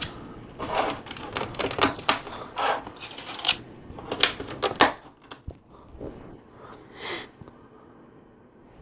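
Small plastic LEGO tiles clicking and clattering against each other and the table as they are handled and sorted, a quick run of sharp clicks that thins out over the last few seconds.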